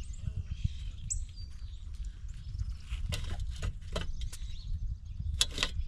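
Birds and squirrels at an outdoor peanut feeding table: a brief bird chirp about a second in, then a run of sharp taps and knocks in the second half, over a steady low rumble.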